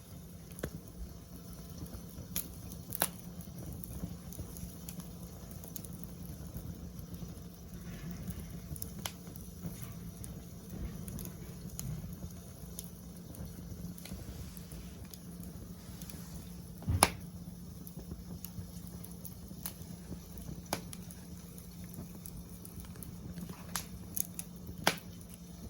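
Wood fire burning in a fire pit: a steady hiss with scattered crackles and sharp pops, the loudest pop about 17 seconds in.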